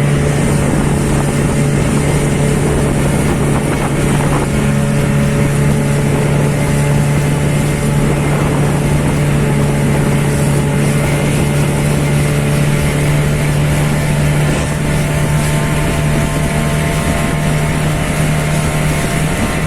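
Motorboat engine running at a steady speed, a constant low hum with noise over it.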